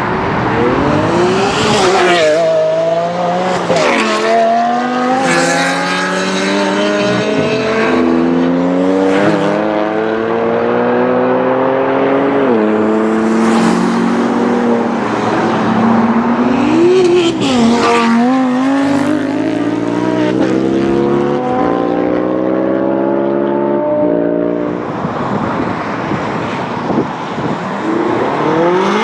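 Performance car engines accelerating hard, one pull after another. The engine note climbs and then drops back sharply at each gear change. It eases to a steadier, quieter note near the end before rising again.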